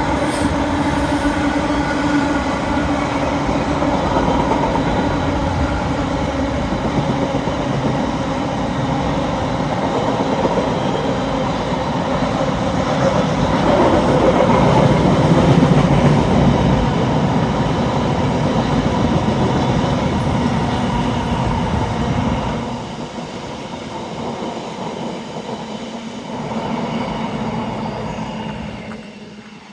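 A long freight train of empty intermodal container flat wagons rolling past, with a steady noise of wheels on the rails. The sound drops away sharply about 22 seconds in and then fades, as the end of the train goes by.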